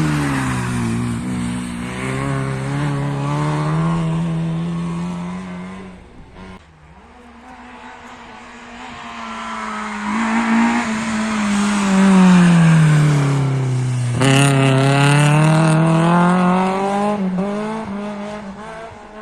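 Rally cars going past one after another, engines loud. The first car's engine note drops, holds steady and fades. The second car's note falls as it slows, then a sharp crack comes and the pitch climbs as it accelerates away.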